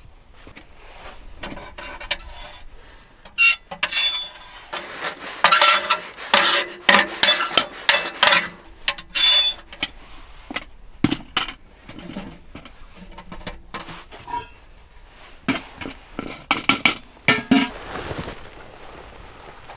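Metal cookware and utensils clinking and knocking as they are handled, in many short sharp strikes, some with a brief ring.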